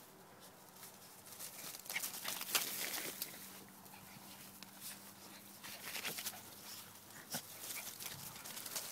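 Two dogs at rough play: faint dog sounds among scattered scuffles and knocks, loudest about two to three seconds in.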